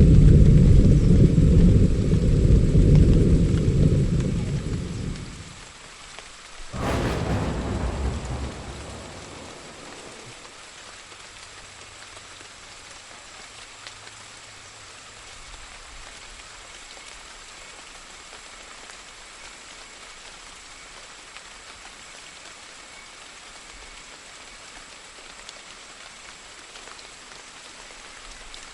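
Thunderstorm: a loud low roll of thunder dies away, then a sharp thunderclap about seven seconds in rumbles off over a couple of seconds, leaving steady rain falling.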